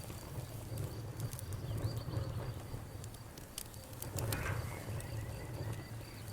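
Campfire crackling, with scattered sharp pops over a low steady rumble, while an insect, likely a cricket, keeps up a faint high pulsing chirp behind it.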